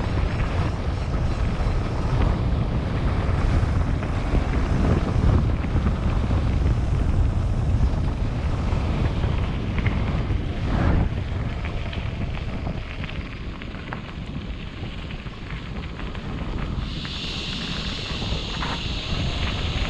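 Wind buffeting the microphone of a camera on a moving mountain bike, a steady rumble with occasional knocks from the bike over the ground. A steady high buzz comes in near the end.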